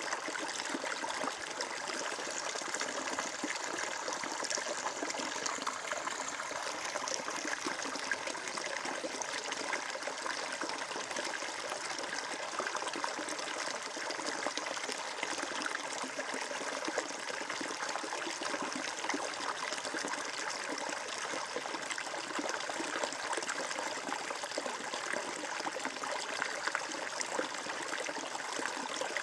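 Flowing water: a stream running and trickling steadily, an even splashing hiss with no deep rumble.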